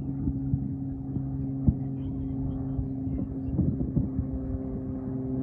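Distant fireworks going off as scattered pops and thuds at irregular intervals, with several close together around the middle, over a steady low hum.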